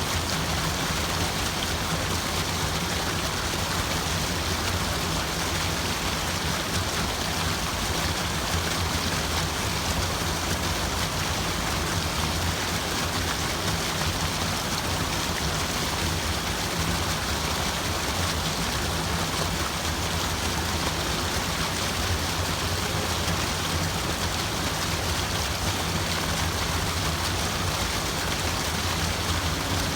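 Water running steadily as continuous ambient background noise: an even, unbroken rush with no distinct events.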